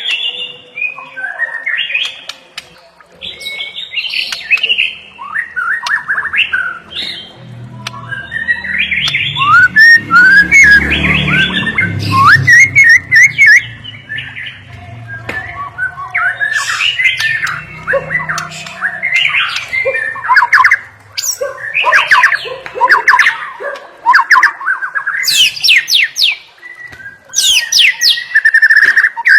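White-rumped shama singing a loud, fast, varied song of whistled glides, rapid trills and harsh squawky notes, the kind of imitation-rich song used to train other shamas. A low rumble runs under the song for about ten seconds in the middle.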